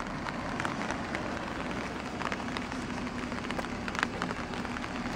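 Steady rain pattering on an umbrella overhead, with many separate drops ticking sharply against it and a faint steady low hum underneath.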